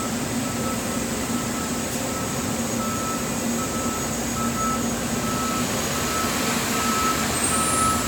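Fire truck's backup alarm beeping in a steady series, about one and a half beeps a second, over the noise of the running truck as it reverses.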